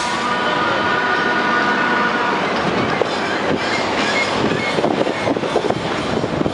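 A train running past on rails, with a steady high squeal for the first couple of seconds, then a dense rattling rumble with rapid irregular clatter.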